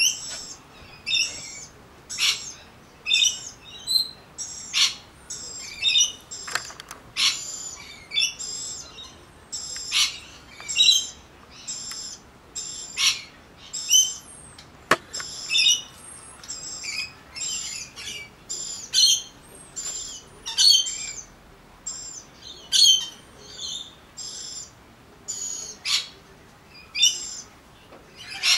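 Birds calling over and over, short high chirps about once a second, with a single sharp click about halfway through.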